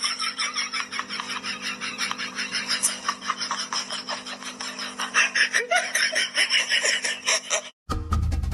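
Hearty human laughter in quick, repeated bursts over a steady low hum. It cuts off near the end, and after a brief gap light music begins.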